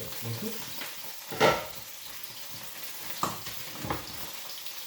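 Food sizzling in a frying pan with a steady hiss, broken by one loud knock about a second and a half in and two lighter utensil clicks near the end.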